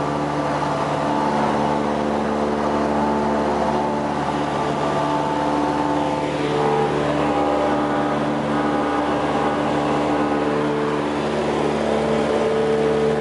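Cessna 172R's four-cylinder Lycoming engine and propeller running steadily, their pitch shifting slightly about halfway through.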